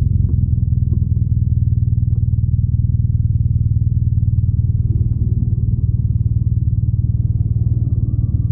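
BMW R nineT motorcycle's air/oil-cooled boxer twin running steadily, its exhaust giving a deep, even pulsing note.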